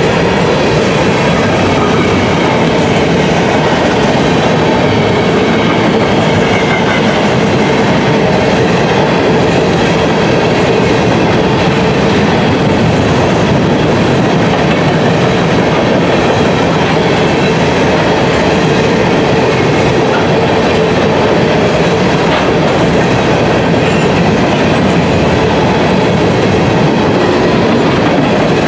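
Covered hopper cars of a freight grain train rolling past: a steady, loud noise of steel wheels running on the rails.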